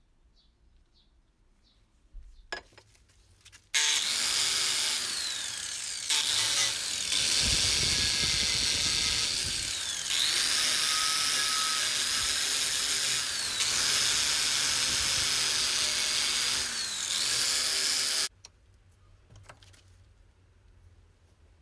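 Handheld electric power tool running for about fourteen seconds, with a hiss of abrasion against metal. Its motor whine dips and recovers several times as it is pressed onto the work and eased off. It starts and stops suddenly.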